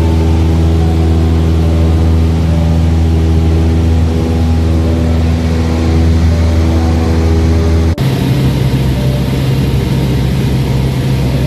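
Cessna light aircraft's piston engine running steadily, heard from inside the cabin. About eight seconds in the engine note changes abruptly to a different, higher pitch.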